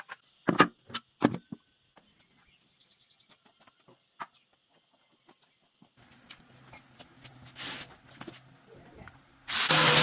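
A few sharp knocks early on, then a low motor hum, and near the end a power tool starts working loudly with a harsh, even noise.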